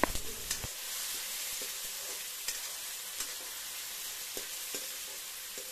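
Chopped tomato, onion and garlic sizzling in hot oil in a metal pan, stirred with a metal spatula: a steady sizzle with scattered clicks and scrapes of the spatula against the pan.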